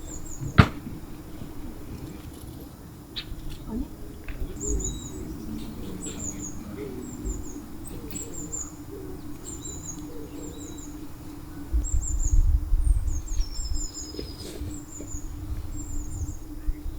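Small birds chirping in short, high, repeated phrases every second or so, over a steady low hum. A sharp click comes just after the start, and a low rumble rises around twelve seconds in.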